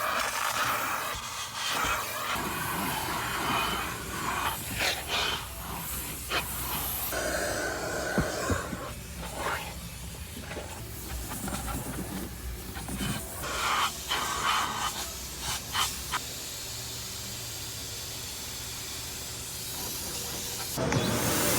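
Car wash vacuum station hose running, its suction hiss rising and falling as the nozzle is moved about, with scattered knocks and clicks. The hiss evens out for the last few seconds.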